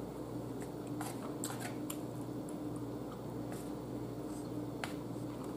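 A person chewing a mouthful of baked chicken, close to the microphone: a handful of soft, irregular mouth clicks over a steady low hum.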